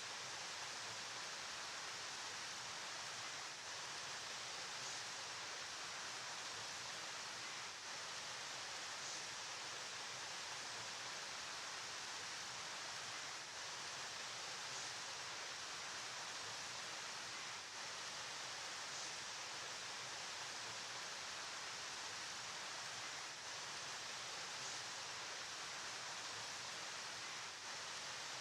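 River water flowing: a steady, even rushing hiss, strongest in the upper range, with small brief dips every few seconds.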